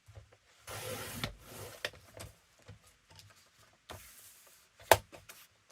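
Paper handled and cut on a bladed paper trimmer: a short rasping slide about a second in, then paper rustles and small clicks, with a sharp click near the end.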